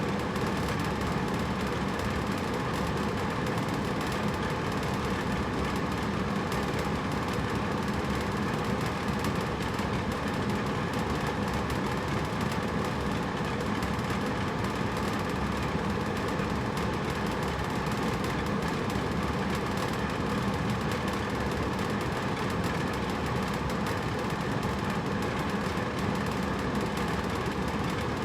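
Hotel room air conditioner running: a steady rush of air with a low hum underneath.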